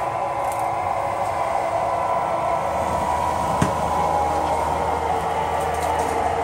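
HO-scale model diesel locomotives running, their DCC sound decoders playing a steady diesel engine sound through small speakers, with a single sharp click about halfway through.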